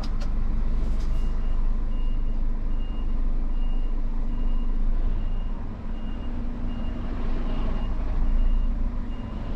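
Truck's reversing alarm beeping, a high steady beep about twice a second starting about a second in, over the low steady running of the truck's engine as it begins to reverse.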